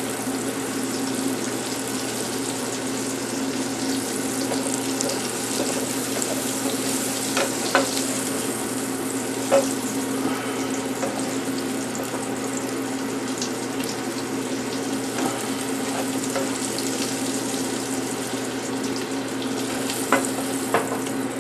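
Onions frying in a pan, a steady sizzle with a constant low hum behind it. A few short taps and scrapes of a spatula against the pan as the onions are shovelled out.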